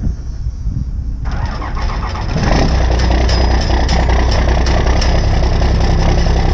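Cummins diesel engine of an old dump truck on a cold start: it cranks for about a second, then catches and runs, growing louder about two seconds in and settling into a steady run.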